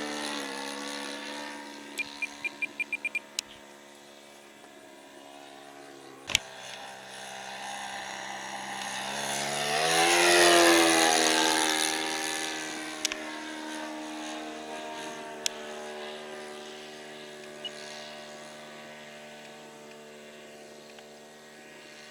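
Radio-controlled model airplane's motor and propeller whining in flight. The whine climbs in pitch and loudness to a peak about ten seconds in as the plane passes, then drops in pitch and fades. A short run of quick clicks comes about two seconds in.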